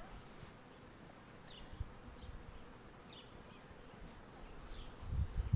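Many honeybees buzzing faintly in the air around their hive, agitated and trying to get back in to their queen. A low rumbling noise rises near the end.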